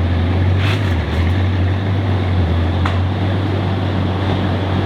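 A car engine running steadily, a deep, even drone with a haze of noise over it.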